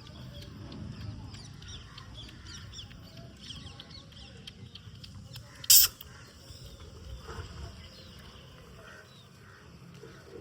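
Animal calls: many short high chirps throughout, with one loud, sharp cry about halfway through.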